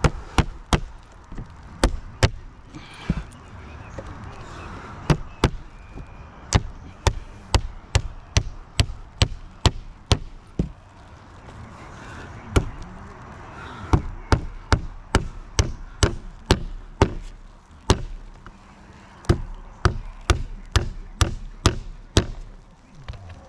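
Roofing nails being driven into asphalt shingles: sharp knocks, often about two a second, in runs with short pauses between.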